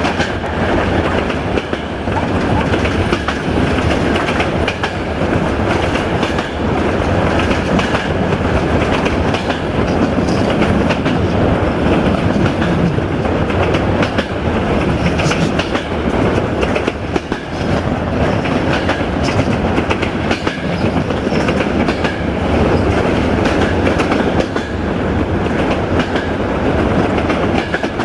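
Passenger train coach running at speed on the rails: a steady rumble with the continual clickety-clack of wheels over rail joints.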